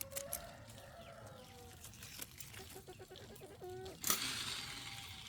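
Chickens clucking in short, wavering calls. About four seconds in, a louder burst of hissy noise lasts about a second.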